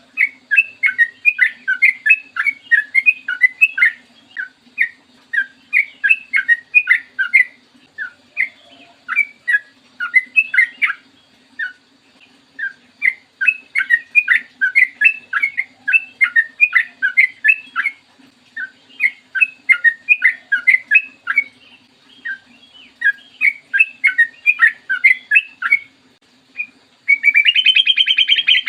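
Yellow-vented bulbul (trucukan) singing its fast, long-running chattering song: quick bubbly notes in runs broken by short pauses, with a harsh buzzy rattle near the end. A faint steady hum lies underneath.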